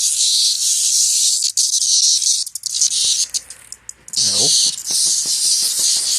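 A handful of male cicadas held in the hand, buzzing in a loud, dense, high-pitched rasp. The buzz cuts out for about a second and a half midway, then starts again, with a short low sound and a few light clicks as it resumes.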